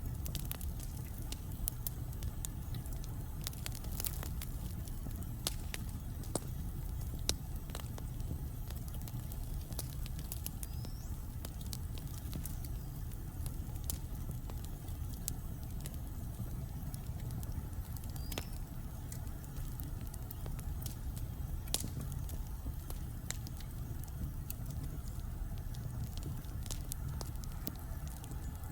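Wood logs burning in a fireplace, crackling and popping at irregular intervals over a steady low rumble.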